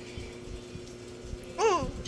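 A young child's short vocal sound, one rising-then-falling syllable of babble near the end, over a faint steady hum.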